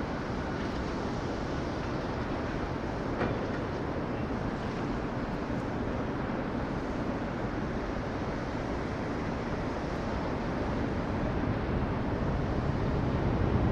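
Jet engine rumble of a Boeing 757-200 departing, a steady dense roar that grows louder over the last couple of seconds.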